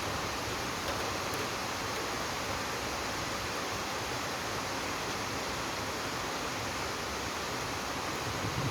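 Steady rain falling in a thunderstorm, an even hiss; a low rumble of thunder begins to build right at the end.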